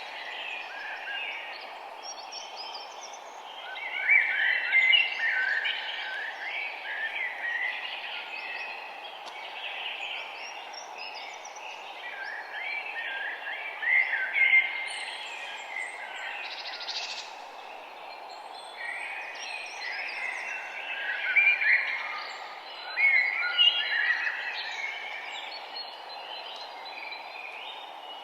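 Several songbirds singing and chirping in overlapping bursts of song, over a steady low background hiss.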